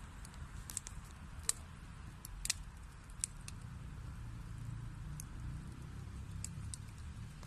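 Wood fire burning in a fireplace: a steady low rumble of the flames with scattered sharp crackles and pops from the burning logs, several in the first few seconds and a few fainter ones later.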